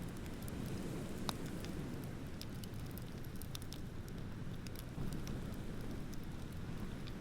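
Beach bonfire crackling, with scattered sharp pops and one louder snap about a second in, over a steady low rumble of ocean surf.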